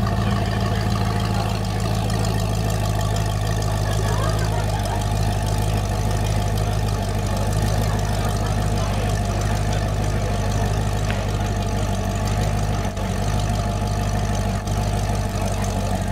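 Arash AF10 supercar's engine idling steadily.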